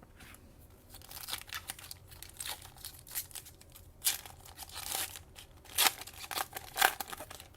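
A trading-card pack's plastic foil wrapper being torn open and crinkled by hand: irregular crackles from about a second in, loudest near the end.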